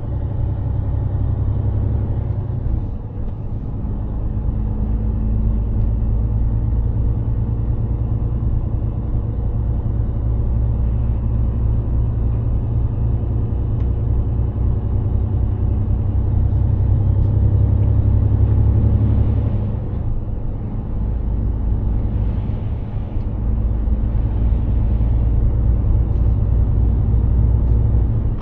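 Mercedes-Benz Actros heavy truck's diesel engine running while driving, a loud low drone with road noise. The engine note dips and changes about three seconds in and again about twenty seconds in.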